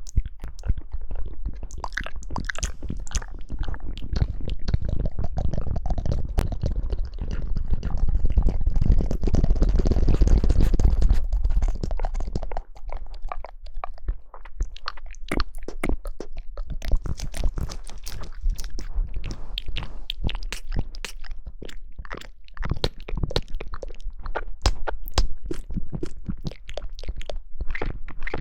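Someone chewing and biting jelly, with dense, irregular wet clicks and crunches. The first half is louder and thicker.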